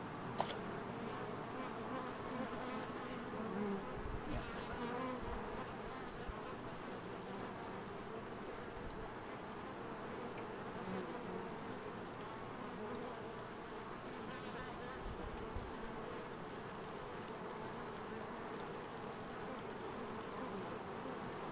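Swarm of honey bees buzzing steadily around the hive box they have just been captured into, stragglers and drones flying in to join the swarm. A single sharp click about half a second in.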